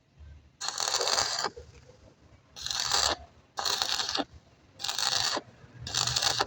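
Repeated hand scraping strokes on metal, five in a row roughly a second apart, each a harsh rasping stroke just under a second long.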